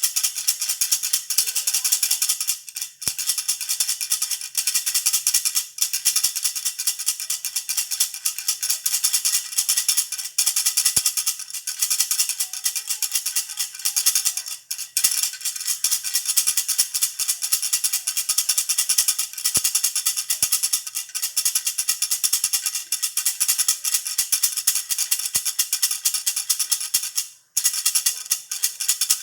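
Jhunjhuna baby rattle shaken continuously in quick, dense strokes, with a faint ringing over the rattle and a few brief pauses, the longest near the end.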